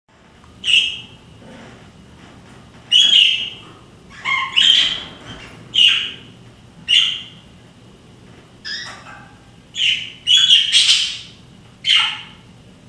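English budgerigars calling: about ten short, sharp chirps at irregular intervals, roughly one every second or so, with a longer burst of chatter near the end.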